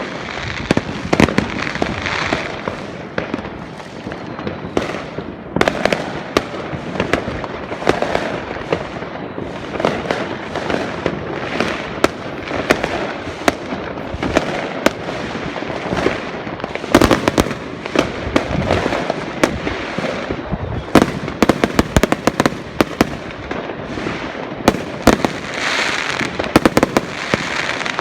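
Many fireworks going off at once: a continuous rumbling wash of bangs with sharp cracks and crackling scattered all through, several louder cracks standing out in the second half.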